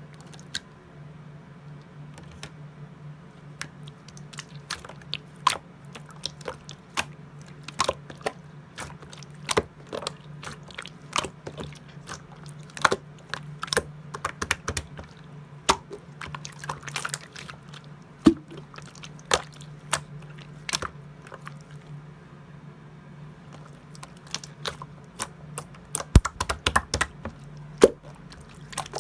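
Pearl slime being pressed and stretched by hand, making irregular sharp clicks and pops that come thicker near the end, over a steady low hum.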